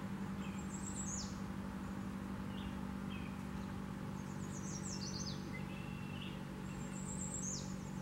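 Small birds chirping: three groups of high notes that sweep quickly downward, about a second in, around five seconds and near the end, with a few fainter short notes between. Under them runs a steady low hum, and the siren is not sounding.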